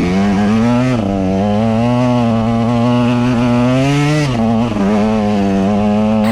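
KTM EXC 125 single-cylinder two-stroke enduro engine running on held throttle, its note climbing slowly and dipping a little about a second in and again just after four seconds.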